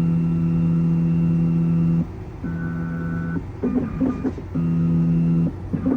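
Electronic key-cutting machine's motors driving its carriage through an automatic cycle: a steady motor whine for about two seconds, then two shorter runs of about a second each with stops between, and light clicks and rattles in the pauses.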